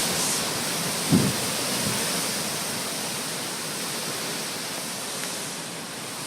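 Storm wind blowing as a steady, heavy hiss. About a second in, a short low buffet of wind hits the microphone.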